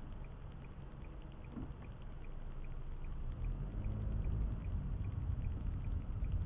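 Car cabin road noise heard from the dashboard: a low rumble of engine and tyres on wet, snowy pavement that grows louder from about halfway through, with a faint, regular ticking throughout.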